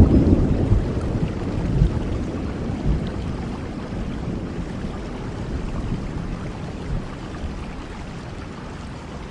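Steady rain with a low rumble of thunder that dies away over the first few seconds.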